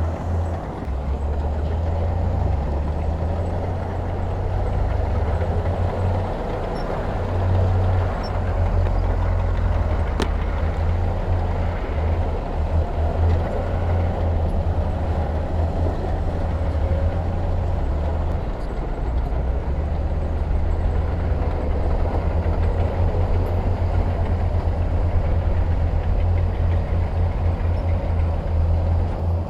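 Diesel engine of heavy earthmoving machinery running steadily, a low rumble that holds through the whole stretch with small rises and falls in level.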